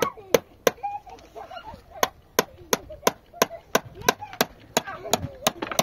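Repeated sharp striking blows, evenly spaced at about three a second, like hammering or chopping, with a short pause of about a second early in the series. High voices or calls sound between the blows.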